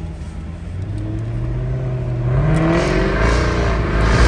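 Jaguar F-Type S's supercharged 5.0-litre V8 engine and exhaust pulling the car away, heard from inside the cabin, rising in pitch and getting louder as it accelerates.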